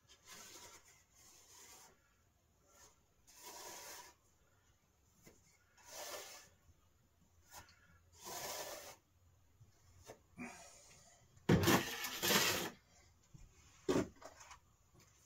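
Irregular rubbing and scraping strokes from hand work, about five of them, the loudest pair about twelve seconds in, with a few light clicks in between.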